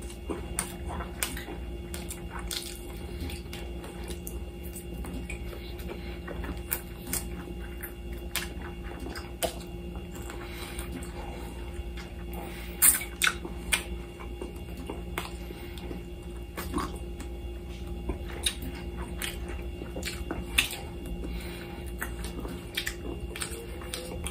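Close-up mouth sounds of a person eating grilled lamb chops by hand: chewing, lip smacks and irregular wet clicks, the sharpest about 13 s in, over a steady low hum.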